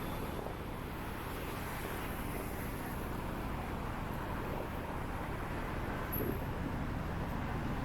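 Steady road traffic noise: a continuous wash of cars passing on a city street.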